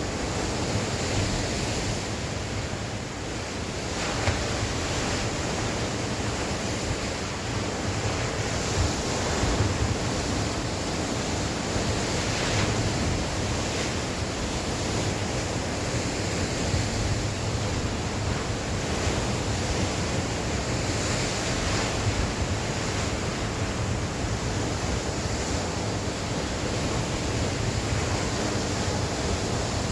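Sea waves breaking and washing on the shore, in a steady rush that swells and eases every few seconds, with wind gusting on the microphone.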